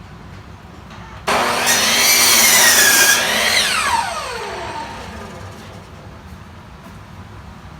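Electric power saw cutting through wood: the motor starts abruptly about a second in, its pitch sagging under the load of the cut, then rises as the blade clears the board and winds down in a long falling whine once the trigger is released.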